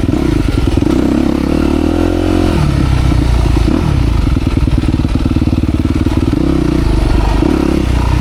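Dirt bike engine running under load as it is ridden, with the revs sweeping up and back down about two seconds in.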